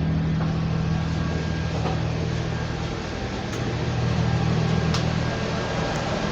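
2007 Blue Bird All American bus engine idling with a steady low hum.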